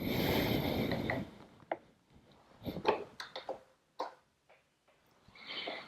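Handling noise: about a second of rustling, then a scattered series of small clicks and light knocks.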